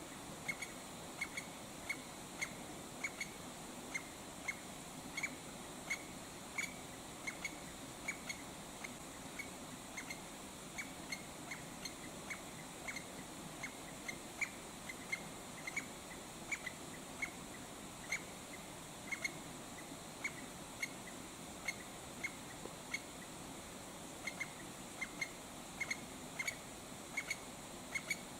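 A small bird calling one short, sharp note over and over, about twice a second, steady through the whole stretch over a faint background hiss.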